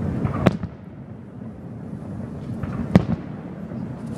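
Aerial firework shells bursting in the distance: two sharp bangs about two and a half seconds apart, over a steady low background noise.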